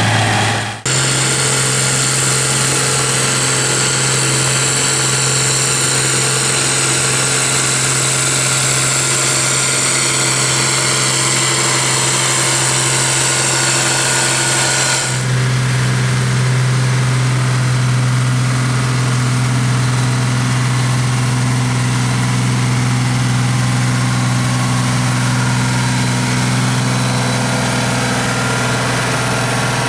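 Tractor-pulling tractor's engine running loud and steady at constant revs, with a high whine slowly falling in pitch through the first half. The sound changes abruptly about a second in and again about halfway through.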